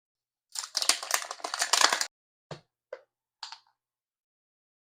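Crinkling and tearing of a small plastic wrapper for about a second and a half, then three light clicks about half a second apart.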